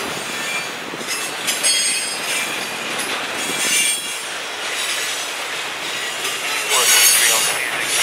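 Boxcars of a CSX manifest freight train rolling past, a steady rumble of steel wheels on rail, with high-pitched wheel squeal coming and going a few times.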